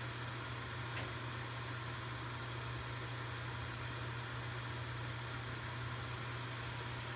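Campfire burning: a steady hiss with a low hum beneath it, and one sharp crackling pop about a second in.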